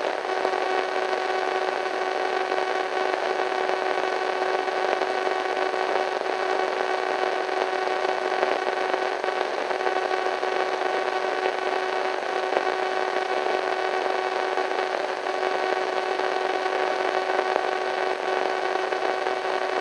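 Radio static: a steady hiss of white noise with several steady humming tones in it, a slightly eerie effect.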